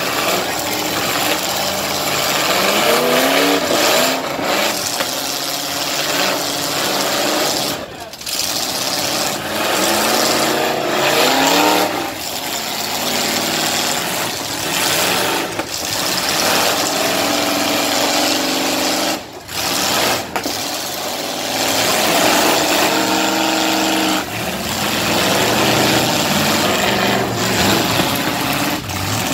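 Demolition derby cars and trucks running hard, several engines revving at once with the pitch rising and falling again and again over a loud, noisy din.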